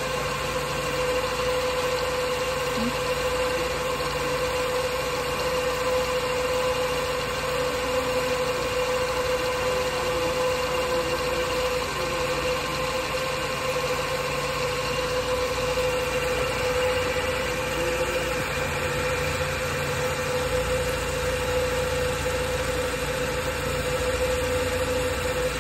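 Nissan GA13 carbureted four-cylinder engine idling steadily while still cold and warming up, with a steady hum holding one pitch throughout.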